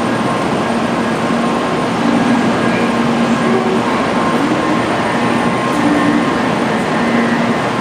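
Steady hum and rush of a stabled 800 Series Shinkansen trainset at a station platform, with faint steady tones running through it.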